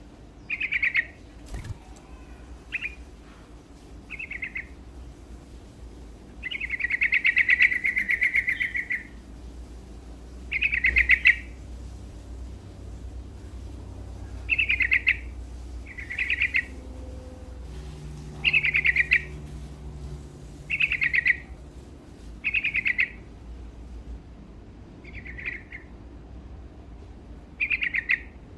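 Yellow-vented bulbul (trucuk) singing: short song phrases repeated every one to two seconds, with one longer phrase about seven seconds in.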